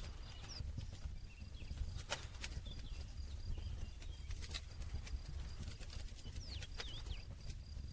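Campfire burning: a low steady rumble with scattered sharp crackles and pops from the burning wood. A few faint bird chirps come through, briefly near the start and again near the end.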